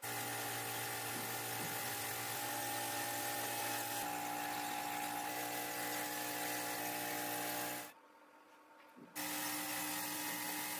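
A small handheld electric power tool, like a rotary tool, runs with a steady high-speed whine. It switches off about 8 seconds in and starts again about a second later.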